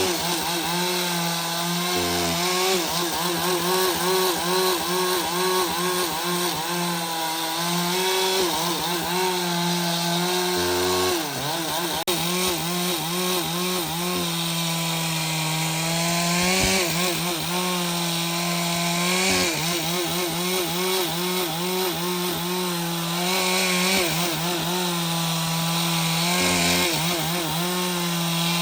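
Chainsaw running at high revs while cutting through wood, its engine note wavering up and down under load, with a brief dip about eleven seconds in.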